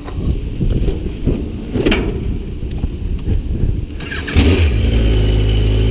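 Motorcycle engine started about four seconds in, catching at once and settling into a steady idle. Before it, wind rumble on the microphone and a few sharp knocks.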